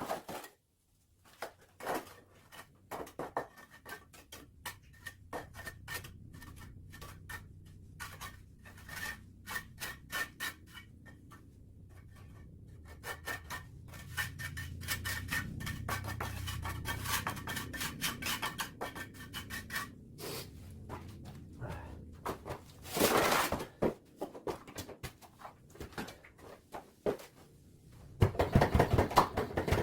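Irregular scraping and rubbing strokes with scattered clicks, as from hand-tool work on a hard surface, with two louder scraping bursts about 23 seconds in and near the end.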